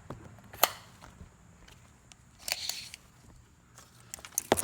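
A few sharp clicks and knocks from objects being handled, the loudest just over half a second in and another near the end, with a short rattle about two and a half seconds in.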